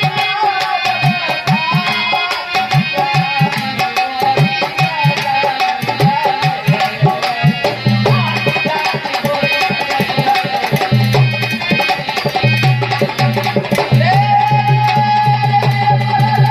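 Dholak drumming a fast, driving folk rhythm under a sustained melody line, in a dehati bhajan.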